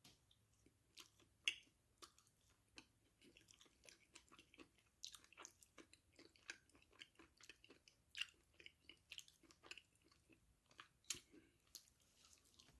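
Quiet, close-up chewing of crunchy food: a steady run of small crisp crackles and crunches, with a couple of louder bites, one about a second and a half in and one near the end.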